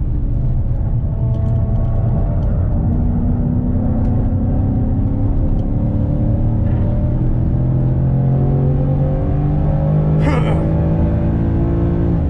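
Car engine heard from inside the cabin on a track lap, its pitch rising slowly as it pulls under acceleration, with a brief sharp noise about ten seconds in.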